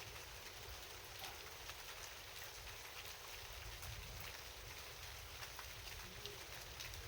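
Steady rain falling, with many individual drops ticking sharply on a nearby hard surface over a soft hiss, and a faint low rumble underneath.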